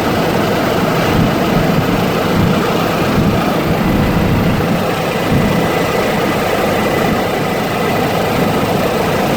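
Helicopter engine and rotor running steadily in flight: a loud, even drone with no changes.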